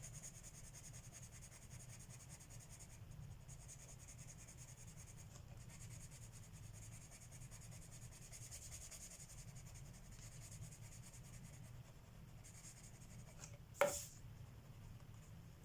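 Colored pencil shading on paper, a faint continuous scratching. Near the end there is one sharp knock, the loudest sound.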